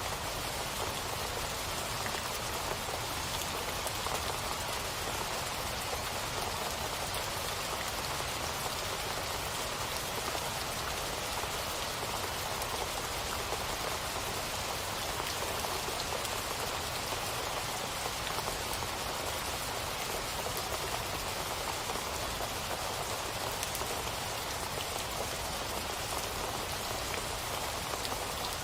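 Steady rain falling, an even hiss of countless drops with no change in strength.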